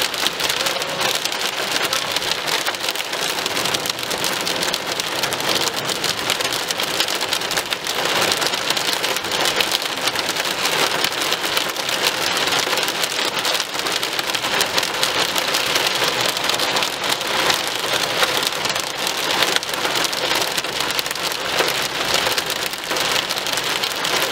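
Heavy rain pelting a car's windscreen and roof, heard from inside the cabin as a steady, dense patter of drops.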